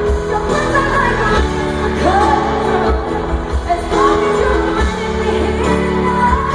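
Live pop ballad performance: a woman singing long notes that glide up and down over sustained band chords and a low bass.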